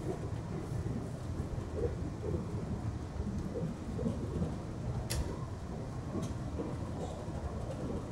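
Puyuma Express (TEMU2000 tilting electric multiple unit) running at speed, heard from inside the passenger car: a steady low rumble of wheels on rail, with two sharp clicks about five and six seconds in.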